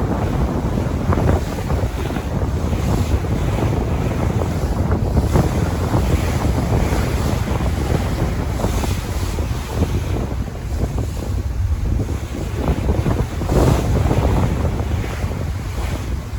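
Sea waves washing and splashing, with strong wind buffeting the microphone in a steady low rumble.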